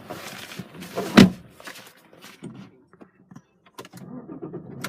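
A car door shutting with a solid thump about a second in, followed by a few light clicks and knocks.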